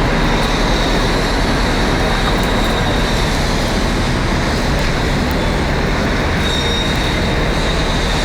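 Steady, loud engine rumble, with a thin high whine that grows stronger past halfway.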